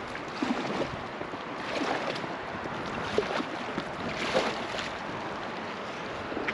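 River water rushing and lapping against a floating raft, with soft splashes swelling up every second or so.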